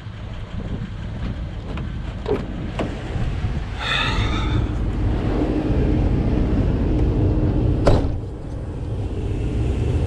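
Truck engine running steadily with a low rumble. A brief high squeal comes about four seconds in, and a sharp knock comes near the end.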